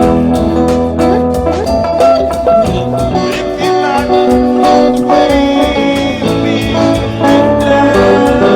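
A band improvising at practice: held instrumental notes over a steady beat of strikes, playing loudly throughout.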